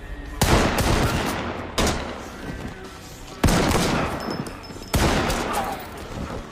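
Four gunshots, spaced about a second and a half apart, each with a long echoing decay.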